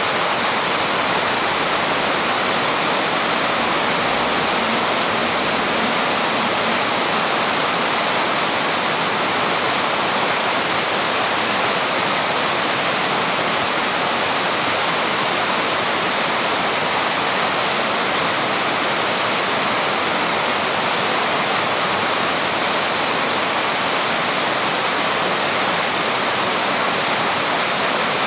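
Small waterfall rushing steadily, an even, unbroken roar of falling water.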